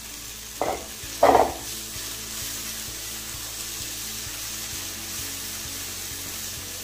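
Boiled long beans sizzling in coconut oil in a non-stick pan as they are stir-fried with a wooden spatula: a steady frying hiss with stirring, and two short louder sounds about a second in.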